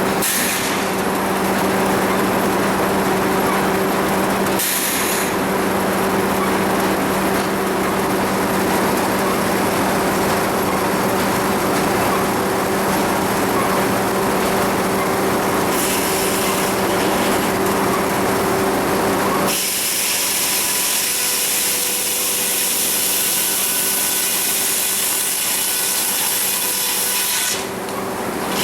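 Sawmill saw running steadily with a low hum, sawing a cedar log. About two-thirds of the way through, the low hum drops away and the sound turns to a brighter hiss.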